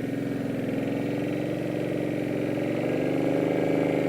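Motorcycle engine running under way, its note climbing slightly and getting a little louder as it accelerates.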